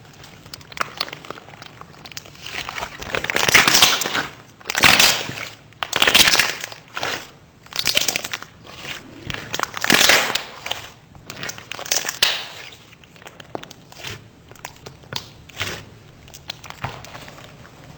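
Slime being pressed and squeezed by hand, giving a run of crackling, popping clicks with louder crunchy swells every couple of seconds. It thins out to scattered clicks near the end.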